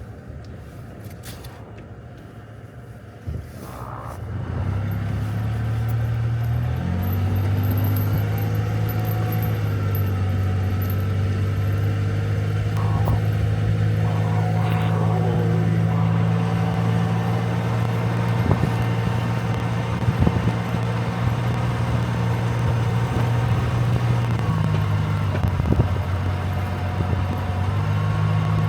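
Vehicle engine pulling under load as the recovery truck rolls forward to take up a tow rope on a stuck truck. The engine comes up about four seconds in and steps higher, then runs steadily, dipping and rising again near the end.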